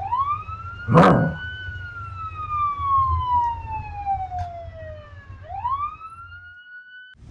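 Police siren wailing: the pitch rises quickly, falls slowly for about five seconds, rises again and cuts off suddenly near the end. A short, sharp loud hit sounds about a second in, over a low rumble.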